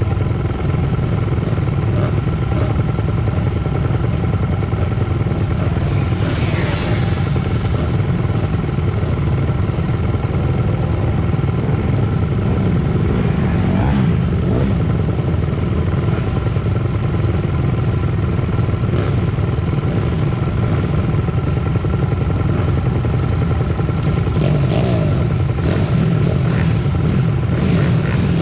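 Pit bike engines running hard as the bikes race, a steady loud mix of small single-cylinder motorbike engines, with a brief rising rev about six seconds in.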